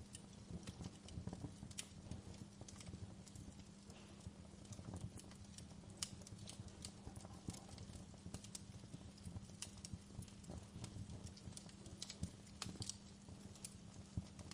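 Wood fire crackling in a fireplace: irregular sharp pops and snaps, several a second with a few louder ones, over a low steady hum.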